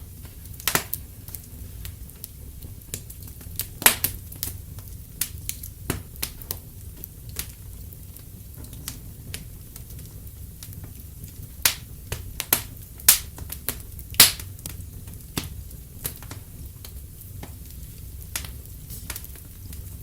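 Fireplace fire crackling: irregular sharp pops and snaps, a few much louder than the rest, over a steady low rumble.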